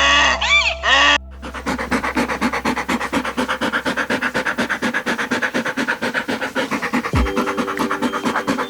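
Honking animal calls for about a second, then a long run of fast, rhythmic, breathy grunting pulses from an animal, several a second.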